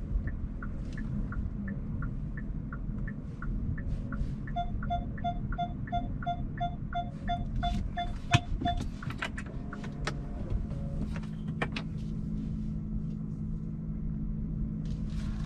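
Hyundai Kona Hybrid cabin with steady road rumble and the turn indicator ticking evenly for the first few seconds. Then a run of about fifteen short electronic beeps over four seconds, a sharp click, and from about eleven seconds in a steady low hum.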